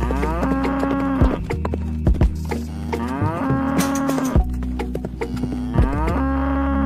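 Recorded cow mooing, repeated several times in a row, each moo sliding up in pitch and then held steady, with a few short sharp clicks in between.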